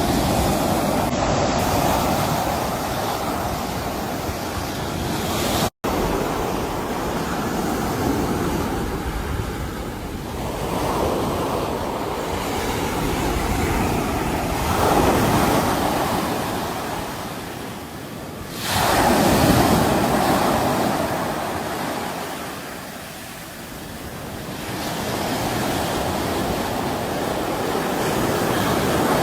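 Sea waves breaking and washing in, a rushing surf that swells and ebbs every few seconds. The loudest wave crashes in suddenly about two-thirds of the way through. The sound drops out for an instant about six seconds in.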